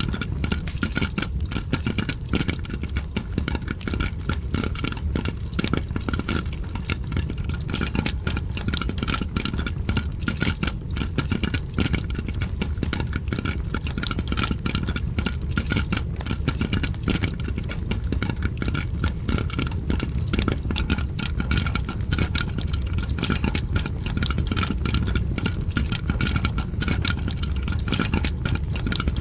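Popcorn popping mixed with a crackling fire: a dense, unbroken stream of small pops and crackles over a steady low rumble.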